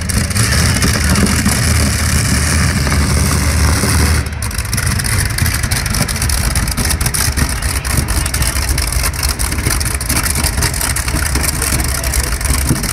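Pulling tractor's engine running hard at high power, loud and steady with crackle, dipping briefly about four seconds in, recorded on a mobile phone.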